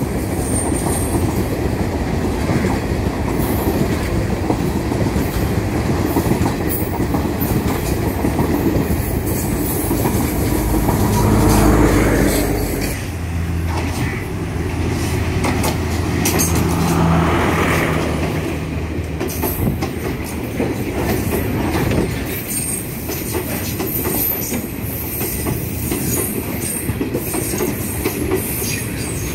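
Sri Lankan diesel multiple-unit trains passing a station platform: wheels clattering over the rail joints with some squeal. About halfway through the steady drone of a diesel engine comes in as the next train approaches, and near the end another train clatters past close by.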